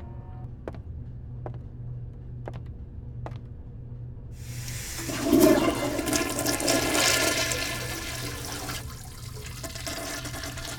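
A few sharp clicks, then a toilet flushing about four seconds in: a loud rush of water that tails off into a quieter run of water, over a steady low hum.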